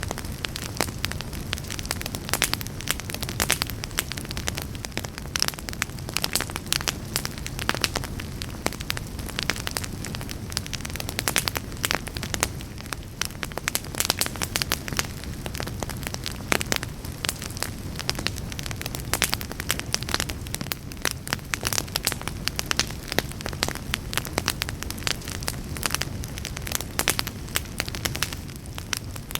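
Wood fire burning in a fireplace, crackling and popping irregularly over a low steady rumble of flame.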